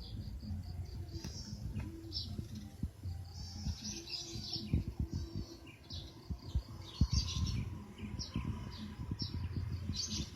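Small birds chirping: many short, high, repeated calls throughout. Underneath runs a low rumble with frequent soft knocks.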